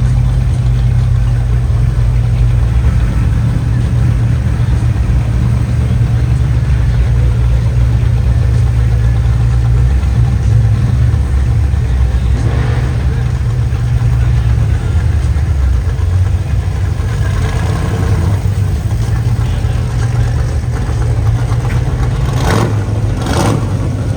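Old-school car engines rumbling steadily, with a few short revs near the end.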